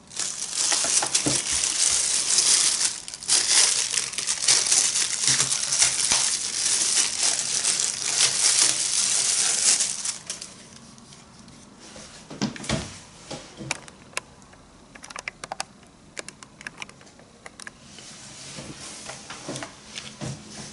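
Packaging crinkling and crackling loudly as it is handled and pulled open for about ten seconds, then quieter scattered clicks and taps.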